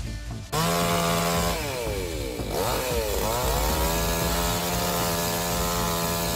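Two-stroke chainsaw running at high revs. About halfway through, its pitch dips sharply and climbs back, then holds steady.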